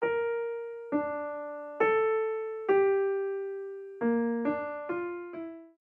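Background music: a solo piano playing a slow, simple melody of eight single notes, each struck and left to fade, the last few coming quicker.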